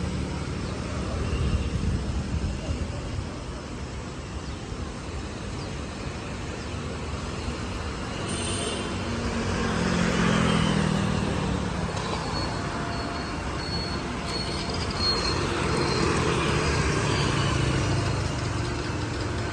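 Road traffic: vehicles passing, a steady rumble that swells about halfway through and again near the end.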